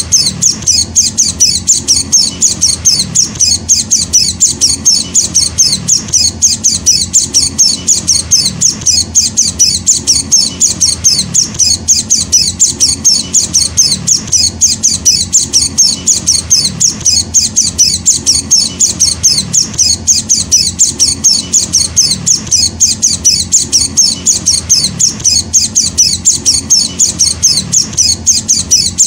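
White-eye (Zosterops) chick begging: a rapid, unbroken run of short, high-pitched chirps, several a second, at a steady level.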